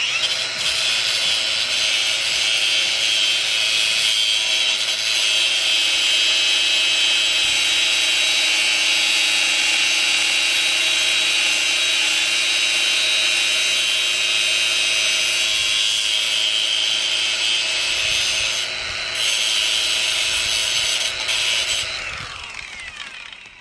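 Cordless 20-volt angle grinder starting up and grinding against a steel rod, running steadily, easing briefly about 19 seconds in, then spinning down with falling pitch near the end.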